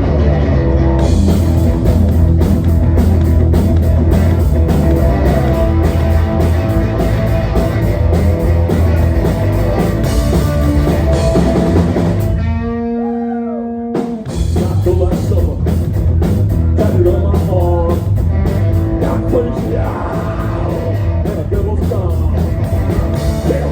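Live rock band playing: electric guitar, bass guitar and drum kit at full volume. About halfway through the band drops out briefly, leaving a couple of held notes ringing with a sliding pitch, then the full band comes back in.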